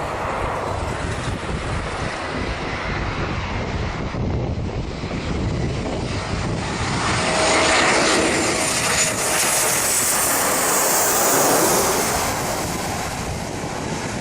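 An airplane's engines in flight. The rushing engine noise swells about halfway through and stays loud, with a faint whine, before easing slightly near the end, as a plane passing close by would.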